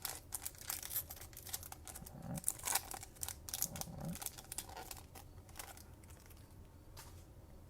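Foil trading-card pack wrapper being torn and crinkled by hand as a stubborn pack is worked open, in dense bursts of crackling that thin out after about five seconds.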